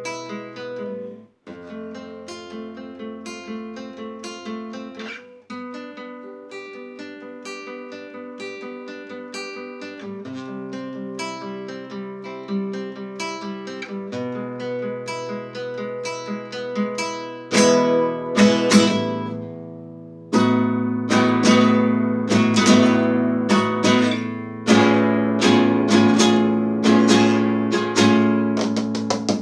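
Acoustic guitar playing an instrumental passage: single picked notes at first, then louder strummed chords from about two-thirds of the way in.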